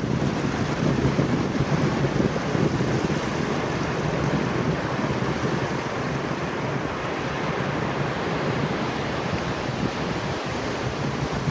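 Ocean surf washing on a beach, a steady rushing noise, with wind buffeting the phone's microphone.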